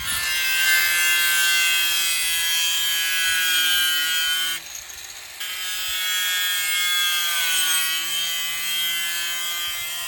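Electric power tool cutting into an old water heater tank, its motor running with a high whine. It stops briefly a little before halfway, starts again, and its pitch sags under load later on.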